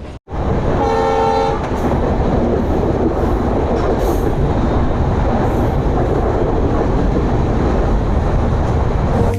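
A passenger train running at speed with a steady rumble, its horn sounding one short blast about a second in.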